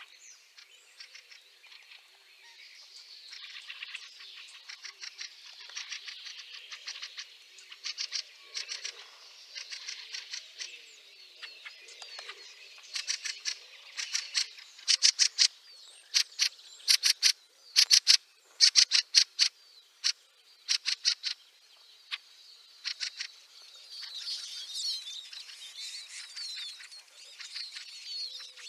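Fieldfares calling: quick runs of short chacking notes, loudest and densest midway, with softer squeaky chattering before and after.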